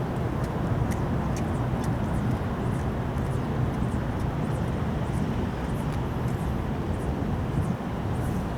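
Steady low engine rumble with faint high ticks scattered through it.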